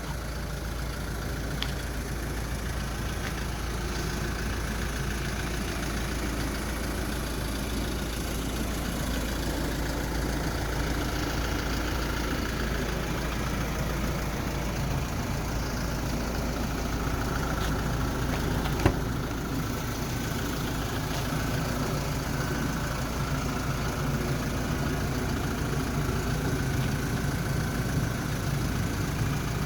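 Kia Bongo III cargo truck's 3000 cc diesel engine running steadily, with a single sharp click about nineteen seconds in.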